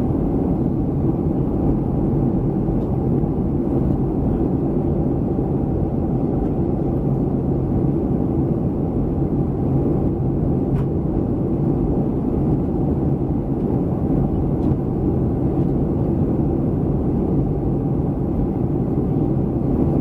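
Steady cabin noise of a Boeing 737-300 airliner in flight: an even, low rumble of the CFM56 jet engines and airflow, unchanging throughout.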